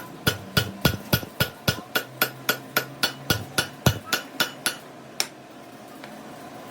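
Hammer striking metal in a steady fast rhythm, about three to four ringing blows a second, stopping about five seconds in.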